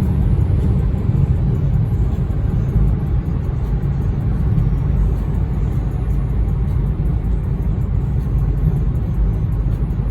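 Steady low rumble of engine and road noise inside a car's cabin while driving.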